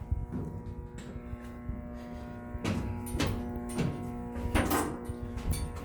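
Steady machinery hum in a tugboat's engine room, with a few short knocks about midway through.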